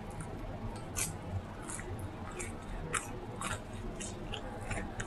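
Close-miked chewing and mouth smacking while eating: a string of short, sharp wet clicks, about two a second, over a low steady hum.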